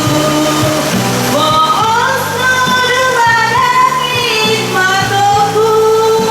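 A woman singing a melody over backing music, with a long held note near the end.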